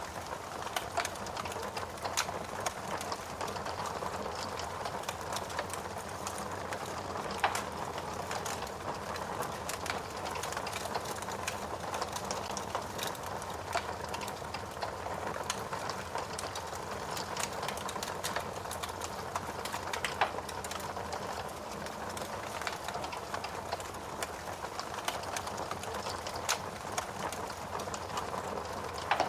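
Steady rain falling together with a wood fire crackling, its sharp pops and snaps scattered irregularly over the even hiss of the rain.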